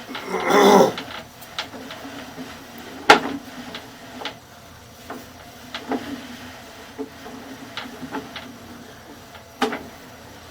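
Sewer inspection camera's push cable being pulled back toward its reel: scattered sharp clicks and knocks every second or two over a faint steady hum, with a brief louder sound about half a second in.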